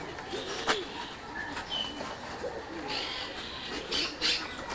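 Birds calling: a run of low, arching calls with a few short higher chirps and a single click.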